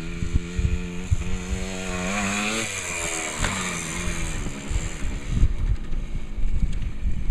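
Small motorbike engine running, revving up about two seconds in and then easing back off.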